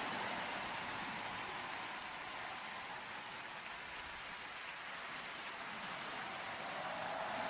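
Concert crowd applauding and cheering, a steady wash of noise that dips slightly in the middle and swells again near the end.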